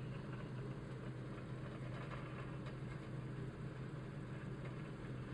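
A steady low hum over faint hiss.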